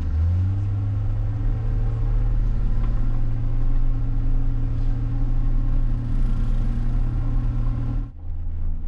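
John Deere 544K wheel loader's diesel engine running steadily under way, a deep hum with a steady drone above it. About eight seconds in the sound changes abruptly to a duller, lower engine sound.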